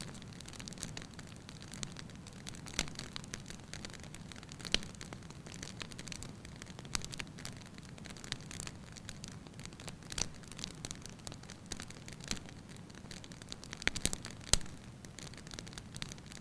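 Wood fire burning in a fireplace, with a low steady rush of flames and irregular crackles and pops, two sharp pops loudest about fourteen seconds in.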